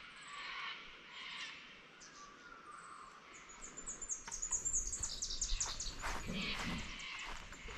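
Birds chirping and twittering, with a dense run of quick, high, falling chirps in the middle. Footsteps on grass and gravel join toward the end.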